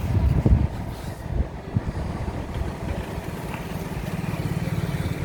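Low, steady rumble of a diesel-hauled train standing at a station platform, with a few louder thumps in the first couple of seconds.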